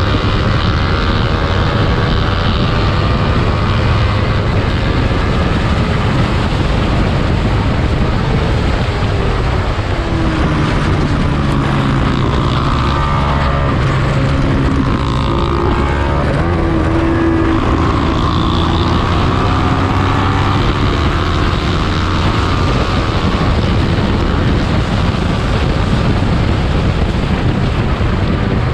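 Small-displacement racing motorcycle engine at high revs, its note rising and falling with throttle and gear changes over a loud, constant noisy rush.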